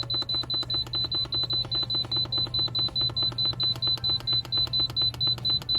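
Instant Pot control panel beeping rapidly, about five short high beeps a second, as the pressure-cook time is stepped up toward 40 minutes; the beeping stops at the very end.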